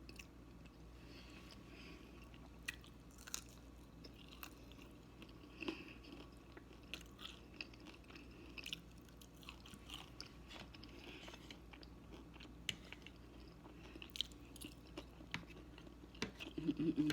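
A person chewing food close to the microphone, with scattered small mouth clicks. A brief louder low sound comes near the end.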